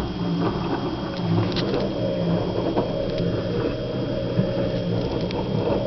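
LG WD-10810MD direct-drive front-loading washing machine in its main wash: the drum turning the wet laundry, with water sloshing and pattering over a low, pulsing motor hum.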